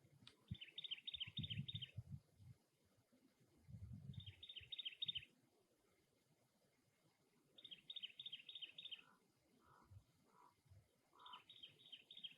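Cactus wren giving its harsh, scratchy chugging call, four phrases of rapid rasping notes a few seconds apart. A few short lower notes come between the last phrases, and low rumbles sound under the first two.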